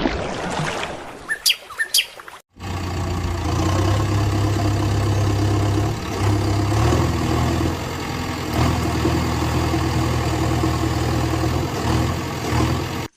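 Heavy vehicle's diesel engine running steadily, its low note shifting a little now and then, starting suddenly a couple of seconds in after a short stretch of fading noise with a few high chirps.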